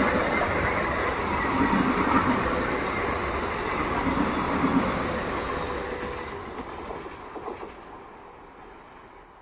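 Electric multiple unit local train running past at speed, its wheels clattering over the rails, the noise fading steadily as it moves away.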